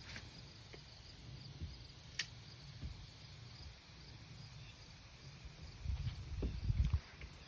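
High-pitched insect chorus, buzzing in long stretches of about two seconds with short breaks, over a low rumble that grows louder near the end.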